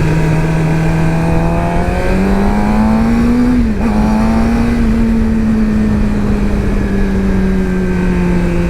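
Yamaha FZ-07 parallel-twin motorcycle engine under way with wind rush. It revs up about two seconds in, dips briefly in a quick gear change, then runs steady and eases off slightly near the end.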